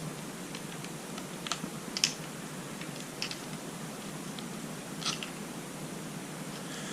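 Light clicks and taps of small distributor parts being handled and fitted by hand, a few separate sharp ticks spaced about a second apart.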